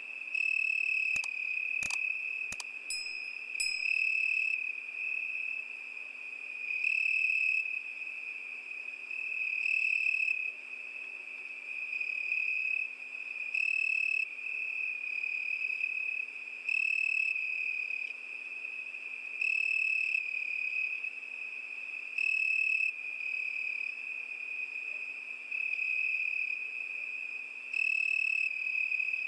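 A cricket singing a continuous high-pitched trill that swells louder for about half a second every three seconds or so. A few sharp clicks sound in the first few seconds.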